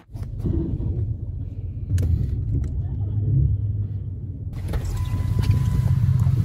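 A car or truck engine running with a steady low rumble, heard from inside the vehicle's cabin.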